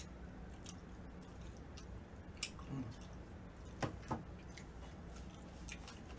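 Faint eating sounds: a person chewing, with a few small scattered clicks, over a low steady hum.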